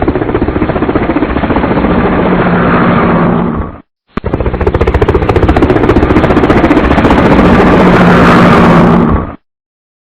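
Ducati Testastretta DVT V-twin engine running loud with a rapid pulsing beat at a steady speed. It cuts off abruptly about four seconds in, starts again a moment later, grows slightly louder and cuts off suddenly shortly before the end.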